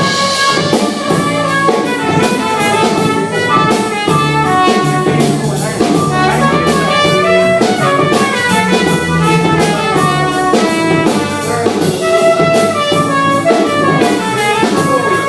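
Live band playing an instrumental passage with no vocals: a drum kit keeps a steady beat under a sustained horn-like lead melody.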